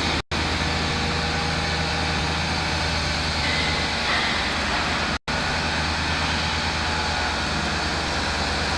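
Diesel engine of a heavy multi-axle transporter running steadily with a low hum, cut off for a split second twice.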